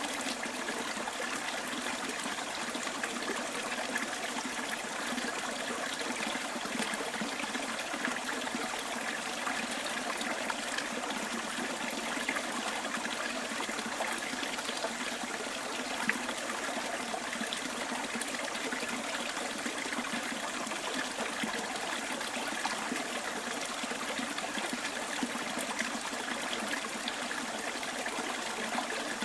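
Small bush stream running steadily over stones, a continuous trickling and splashing with no change.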